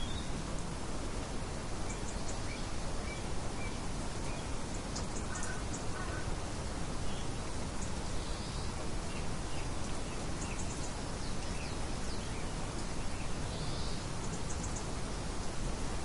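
Steady hiss of a wind-and-snowfall ambience with scattered short, faint bird chirps.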